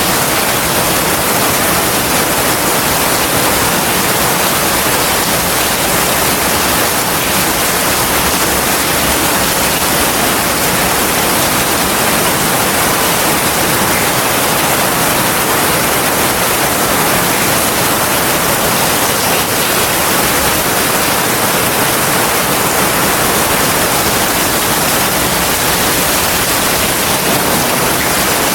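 Heavy rain falling steadily, a dense, even wash of sound with no thunder and no let-up.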